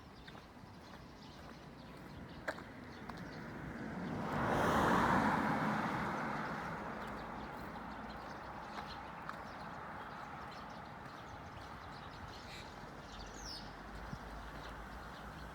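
A road vehicle passing close by, its noise swelling to a peak about five seconds in and then slowly fading, over a steady background of traffic noise with a few light ticks.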